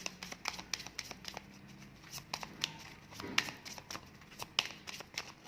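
Cards being shuffled and handled to draw three: many quick, irregular flicks and slaps of card against card.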